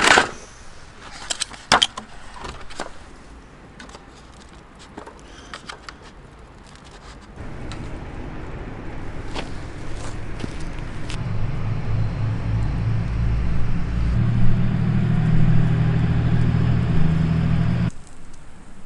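A few light clicks and taps, then the low hum of a passing vehicle's engine that grows steadily louder from about seven seconds in and cuts off abruptly near the end.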